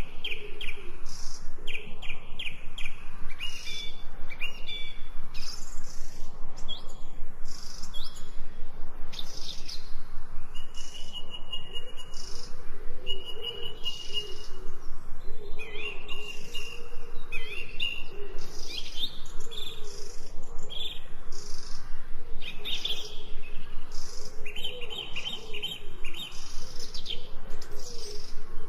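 Songbirds chirping and trilling, many short high calls overlapping one after another, over a fainter low wavering call.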